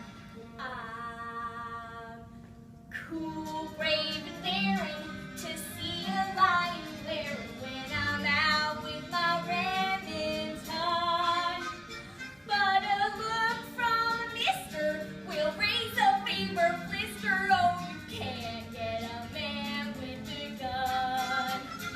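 A girl singing a show tune with vibrato over an accompaniment. A held chord from the accompaniment opens, and the voice comes in about three seconds in.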